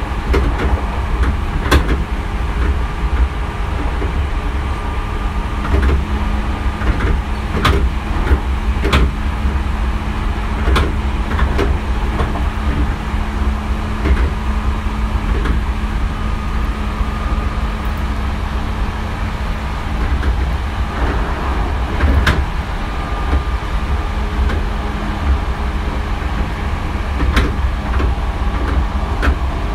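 Hankyu 3300-series electric commuter train running at speed, heard from inside the car. A steady low rumble of wheels on rail is joined by a steady hum from the running gear, with sharp clicks every few seconds as the wheels pass over rail joints.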